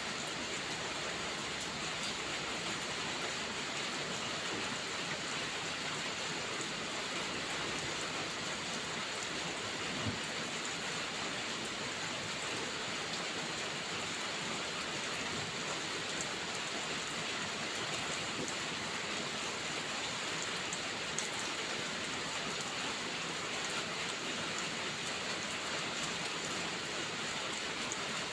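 Heavy rain falling steadily, a dense even hiss. A couple of isolated sharp pops from the crackling fireplace stand out, about a third and three quarters of the way through.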